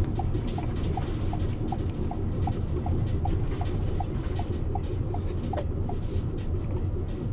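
Steady road rumble inside a moving car, with a light, evenly paced ticking just under three times a second that stops with a louder tick about five and a half seconds in.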